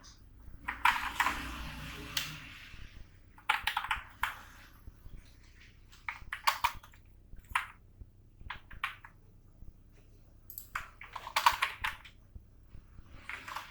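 Computer keyboard typing in irregular bursts of quick keystrokes separated by short pauses.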